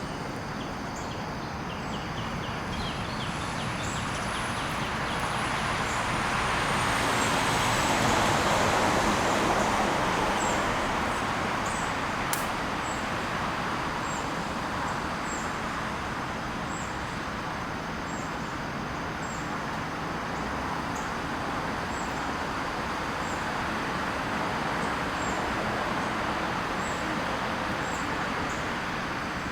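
A passing vehicle: a steady rush that swells to a peak about eight to ten seconds in, then eases back, with a high whine falling slowly in pitch as it goes by. A faint high chirp repeats about every second and a half throughout.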